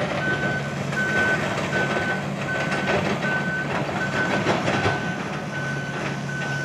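Backup alarm of a heavy vehicle beeping steadily, one high beep about every three quarters of a second, over its engine running, with some clatter.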